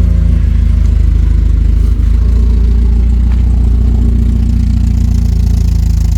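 A 1988 Porsche 944 race car's four-cylinder engine idling steadily, warming up after its first start in months; it runs and idles well.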